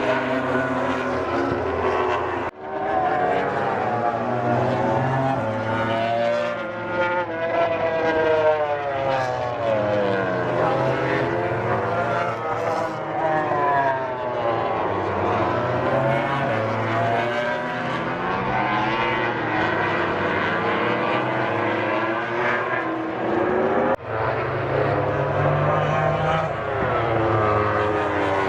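Several MotoGP race bikes' four-stroke engines at high revs, overlapping, their pitch rising and falling through throttle and gear changes as they pass. The sound breaks off sharply twice, about two and a half seconds in and near the end.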